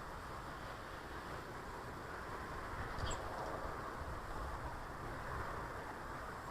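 Steady outdoor background noise with a brief, faint, high bird chirp about three seconds in.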